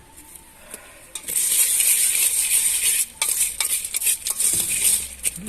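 Jhal muri being mixed by hand in a metal container: a dense rustle of puffed rice being tossed, then a quick run of a spoon clinking against the container from about three seconds in.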